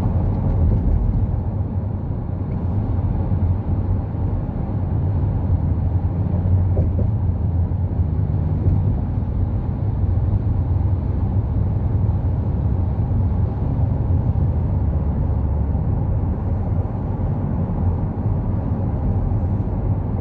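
Inside a V8 pickup truck's cab at highway cruising speed of about 80 km/h: a steady low rumble of road and drivetrain noise, with the V8 engine running quietly underneath.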